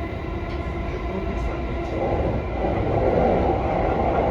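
Sobu Line electric commuter train running, heard from just behind the driver's cab: a steady rumble of wheels on rail with a faint steady motor tone, growing louder about two seconds in.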